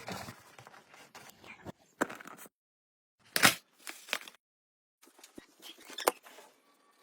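Light clicks and knocks of parts being handled and fitted, in short bursts broken by sudden cuts to silence, with the sharpest knock about halfway through.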